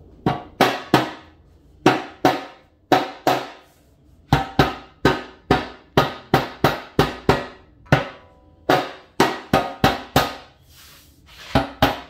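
Sharp metallic knocks in irregular runs of two to five, each ringing briefly, as the oil pan is worked onto the Ford 302 V8's block.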